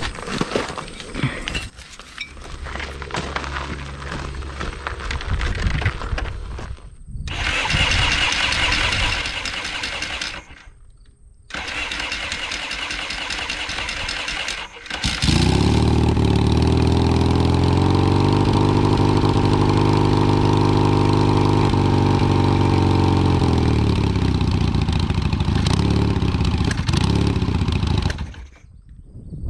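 1978 Yamaha XS650's parallel-twin engine starting up about halfway through and running steadily, then falling away near the end. Before it come several separate bursts of hissing noise and clicks.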